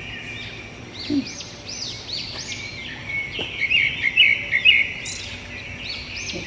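Wild birds singing and chirping: many short, arching high notes repeating and overlapping, with a brighter run of chirps about three and a half to five seconds in.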